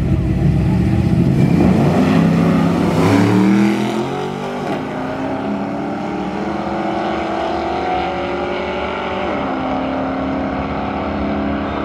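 Two classic cars launching side by side in a drag race, their engines revving hard and climbing in pitch. The pitch drops back about four and a half seconds in and again near nine seconds as they shift gears, and the sound grows fainter as the cars pull away down the strip.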